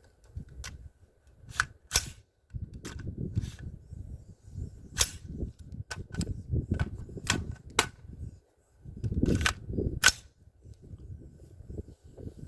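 AR-15 semi-automatic rifle firing about a dozen single shots at uneven intervals, some in quick pairs, with a low rumble between the shots.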